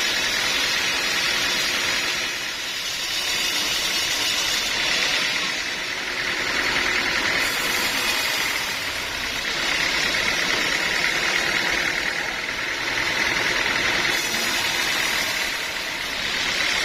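Sawmill machinery running steadily, with a constant whine and a level that rises and falls gently every few seconds.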